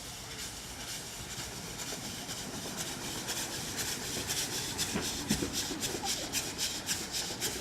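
A train running past, with a regular rhythmic beat of about four strokes a second that sets in a few seconds in and grows louder.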